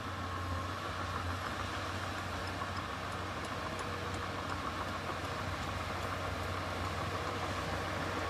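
Diesel engine of heavy earthmoving equipment running steadily, a constant low hum with a faint whine above it.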